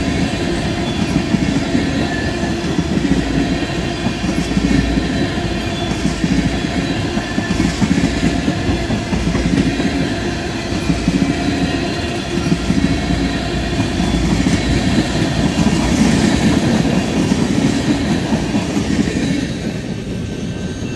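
Freight train tank cars rolling past close by: a steady rumble and clatter of steel wheels on the rails. The sound eases off near the end as the last car clears.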